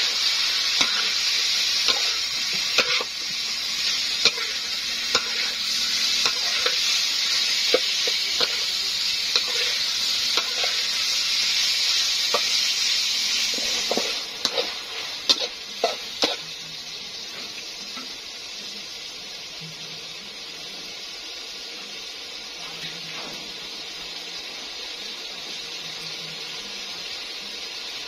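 Catfish pieces sizzling as they fry in oil in a steel wok, with a metal spatula clicking and scraping against the pan as they are stirred. About halfway through the sizzle drops to a quieter steady hiss, the wok now holding liquid and steam, with a few last spatula knocks.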